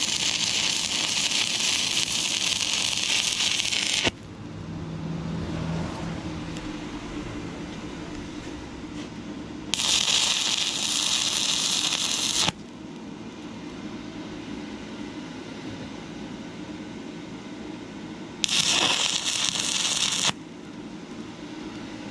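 Stick welding arc from a 6011 rod on thin, rusty metal, crackling and hissing in three short bursts as the hole is filled in stitches. Each burst starts and stops abruptly. A steady low hum runs between the bursts.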